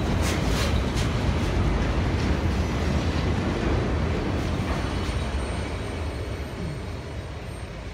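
Norfolk Southern freight train rolling past, a steady low rumble of wheels on rail with a few clicks in the first second. It fades over the second half as the train moves away.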